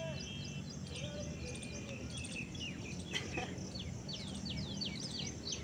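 Small birds chirping: many short, quickly falling calls repeated all through, over a steady low background rumble.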